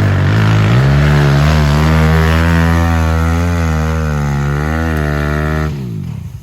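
Pit bike engine revving hard under load on a hill climb, its pitch rising about a second in and wavering with the throttle, then dropping away sharply near the end as the throttle is closed.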